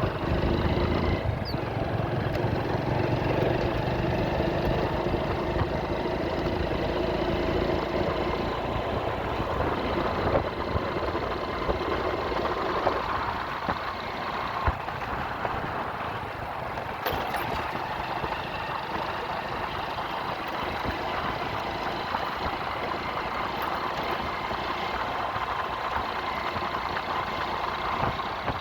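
Motorcycle engine running steadily while riding, with road and traffic noise and a few sharp clicks around the middle.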